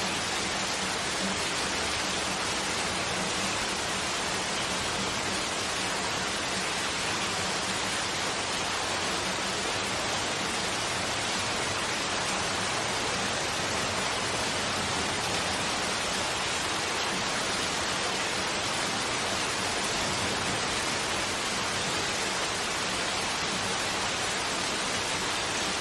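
Steady rain, an even hiss with no break or change.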